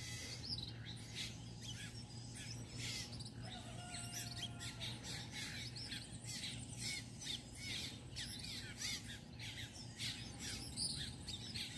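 Many small birds chirping and calling, faint, over a low steady hum.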